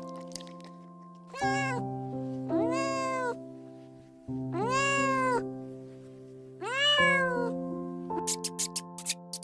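A cat meowing four times, each meow rising and then falling in pitch, the first one short, over background music with held notes. Quick ticking joins the music near the end.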